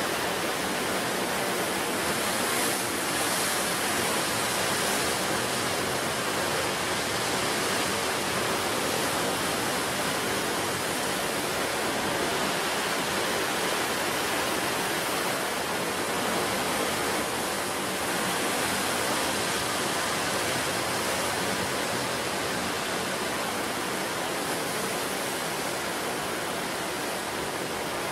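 Sea surf breaking and washing on the shore, heard as a steady, dense rushing noise with no single waves standing out.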